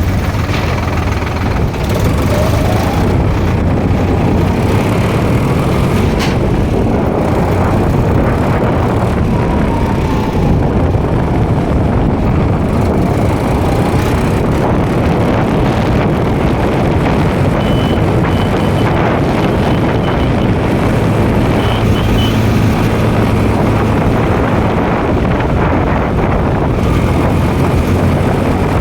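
Tractor engine running steadily under way, a constant low engine noise throughout. Faint short high-pitched beeps come through in the middle stretch.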